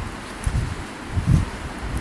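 Wind buffeting the microphone in uneven low gusts, strongest about a second and a half in.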